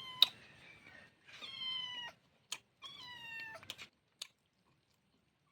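A cat meowing: three drawn-out high calls, each sliding slightly down in pitch. A few sharp clicks fall between them, the loudest just after the first call begins.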